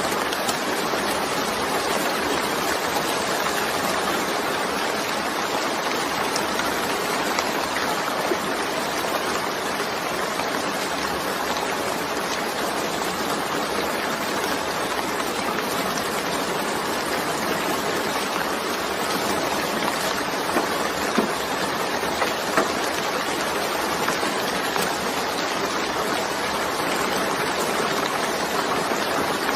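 Steady rain, an even hiss of falling water with a few sharper drop ticks about twenty seconds in.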